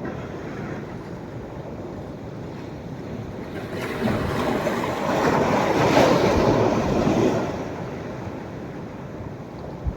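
Sea surf on a beach at rising tide: a steady wash of waves, with one wave breaking and washing up the sand from about four seconds in, loudest around six seconds, then fading. A brief low thump near the end.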